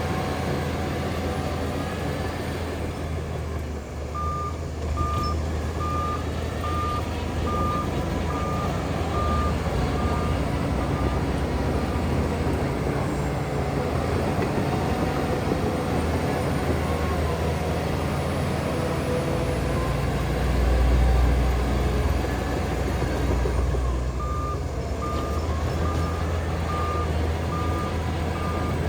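Heavy diesel earthmoving machinery running with a steady low rumble that swells near the middle. A reversing alarm sounds a run of evenly spaced single-pitch beeps, a little under one a second, about four seconds in, then stops, and starts again near the end: a dump truck or bulldozer backing up.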